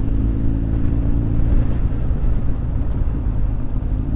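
Honda X4's inline-four engine running steadily while riding, with wind noise on the microphone.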